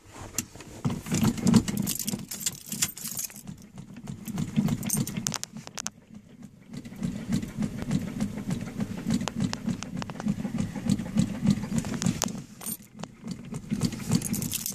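Old Chevy engine being cranked over on its starter during a cold start, in three long bursts with short pauses about 6 and 13 seconds in, while the gas pedal is pumped.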